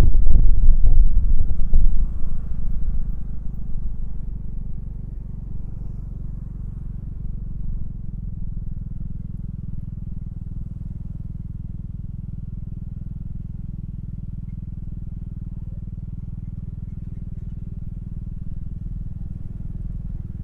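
Honda Fusion scooter's 250 cc single-cylinder engine running with a low drone, loud and gusty for the first couple of seconds, then settling to a steady low hum.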